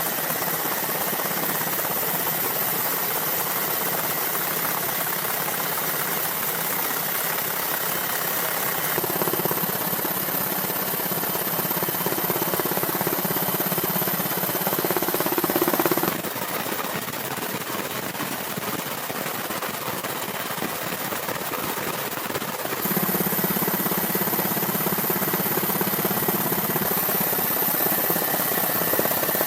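Steady engine noise, like a helicopter or vehicle running, that changes abruptly in character about 9, 16 and 23 seconds in.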